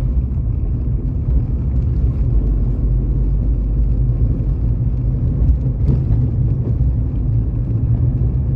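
Steady low rumble of a car driving along a road: engine and tyre noise heard from inside the moving vehicle.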